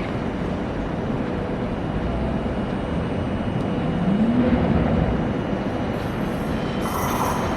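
Train at a station platform with a steady rumble and a brief rising-then-falling hum about four seconds in; high-pitched wheel squeal starts near the end.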